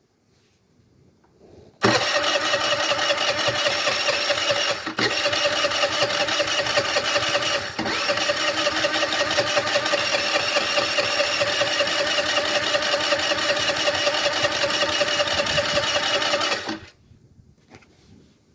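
Electric starter on a 50cc moped engine cranking it steadily for about fifteen seconds, with a whirring whine and two brief dips, and the engine never catches. The engine cranks but won't start even though it has spark and fuel.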